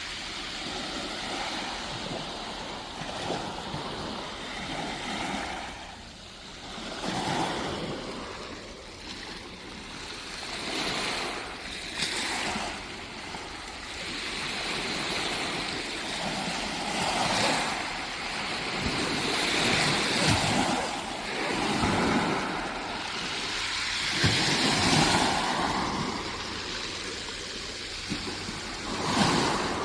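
Waves breaking and washing on a beach, the surf swelling and easing every few seconds.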